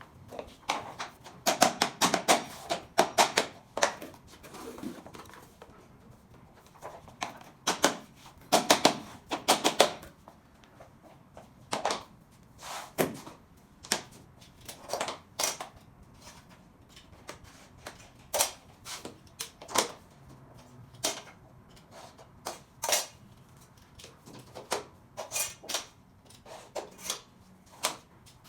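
Sharp taps and knocks as SPC click-lock floor planks are worked into place. They come in quick clusters twice, then singly about once a second.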